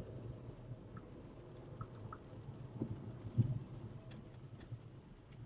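Mercedes CLA 200 cabin on the move: a low steady engine and road rumble, with a thump about three and a half seconds in and a few quick sharp clicks near the end.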